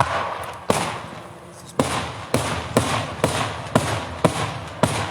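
Daytime fireworks going off: a rapid string of loud bangs, about two a second after the first, each followed by a rolling echo.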